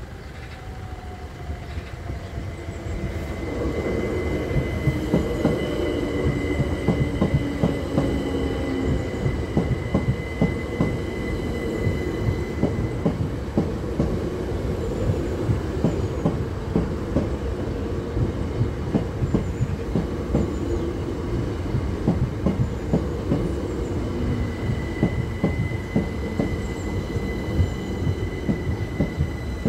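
Electric multiple-unit passenger train passing over a level crossing at close range, its wheels clicking in quick succession over the rail joints. A falling whine sounds as it draws near, and a steady high tone runs through much of the pass, dropping out midway and returning near the end.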